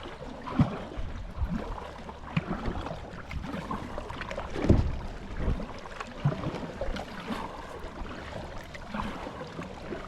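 Water running and gurgling, with wind rumbling on the microphone and a few irregular thumps, the loudest about halfway through.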